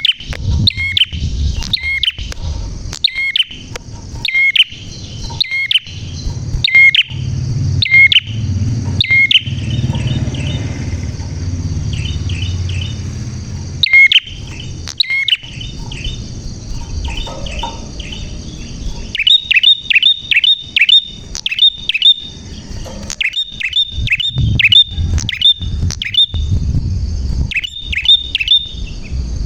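A prinia (prenjak) singing loud, sharp, chirping notes, at first one about every 0.7 seconds. Through the middle the notes thin out over a low rumble. From about two-thirds of the way in, they come in fast runs of four to six notes.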